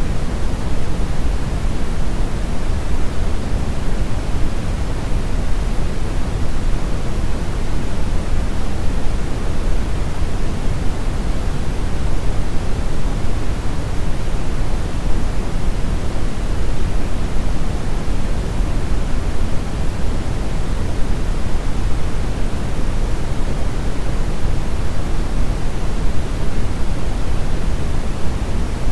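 Continuous brown noise: a steady, even rushing hiss weighted toward the low end, with no changes or events.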